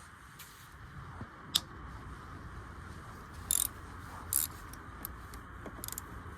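Ratchet wrench with a 10 mm socket clicking in short spells, with a sharp tick about one and a half seconds in.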